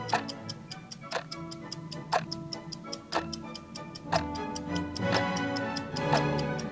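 Countdown timer's ticking-clock sound effect: a strong tick about once a second, with lighter ticks in between, over background music.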